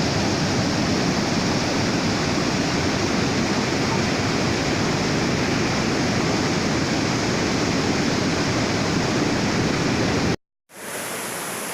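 Steady rush of flowing water, like a waterfall or fast stream. About ten seconds in it cuts out for a moment and comes back quieter and hissier.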